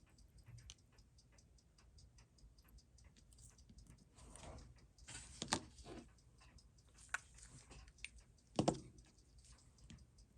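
Faint, fast, even ticking, with a few louder clicks and knocks of small parts and tools being handled from about four seconds in.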